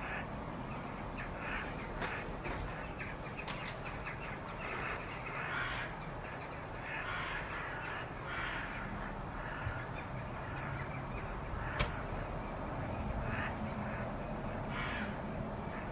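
Repeated short, harsh bird calls over a steady background hiss.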